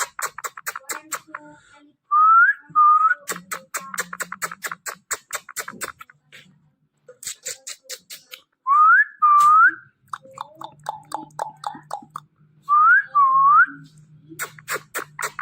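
Whistling: three pairs of short rising whistle notes, about 2, 9 and 13 seconds in, with fast clicking between them.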